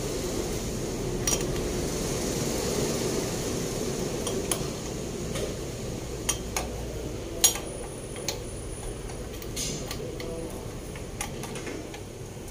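Metal tools and parts clinking and tapping, about a dozen separate sharp clicks with the loudest about halfway through, over a steady low hum.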